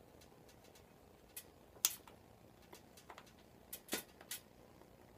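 Sharp clicks and snaps from staples being worked in the wooden or plastic base of a motorcycle seat: about six separate clicks, the loudest about two seconds in and a quick cluster of three near the four-second mark.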